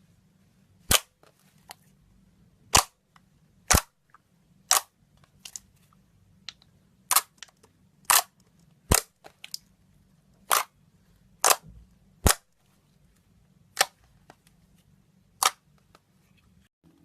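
Slime popping with sharp snaps as air pockets burst while it is squeezed and stretched, about a dozen irregular pops roughly a second apart, some with smaller pops in between.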